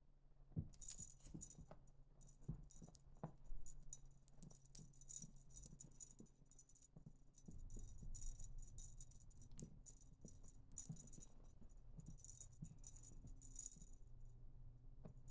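Dangling cat toy rattling and jingling in irregular shakes as a kitten bats, grabs and kicks it, with soft knocks among the shakes. The rattling starts about a second in.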